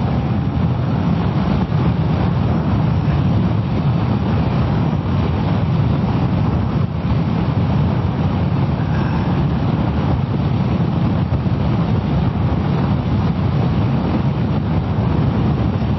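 Steady wind rush over the microphone and road noise from a Kawasaki ER-6f motorcycle on the move, with its engine running underneath.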